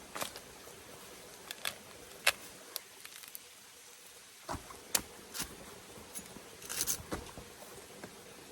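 Scattered sharp clicks and knocks, about a dozen spread over several seconds: a hard, mature seed pod's shell being cracked and pried open by hand to get at the inside.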